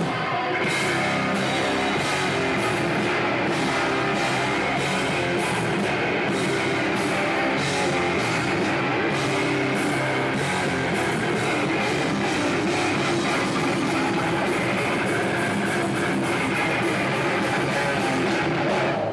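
Metalcore band playing live: heavily distorted guitars and a drum kit at full volume, with cymbals struck about twice a second. The song cuts off abruptly right at the end.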